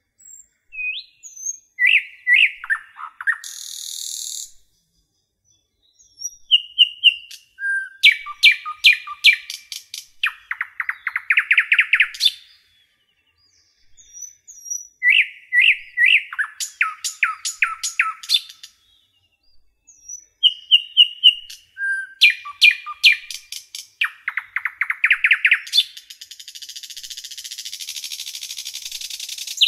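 A songbird singing: bursts of rapid chirps and fast trills in repeating phrases with short pauses between them. A steady hiss comes in near the end.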